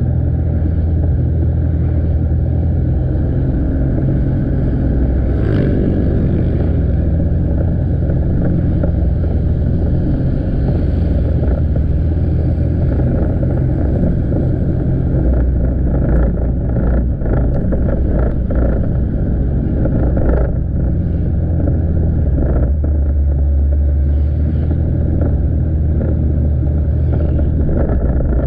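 Motorbike engine running steadily under way, heard from on the bike with road noise; the engine note shifts in pitch a few seconds in. A run of short knocks or clatter comes about two-thirds of the way through.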